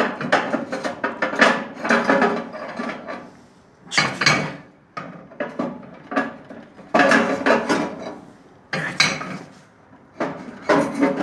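Heavy cast-iron firebox inserts of a Barbas fireplace being lifted out and set down: repeated clanks and scrapes of metal on metal, one every two to three seconds, some ringing briefly.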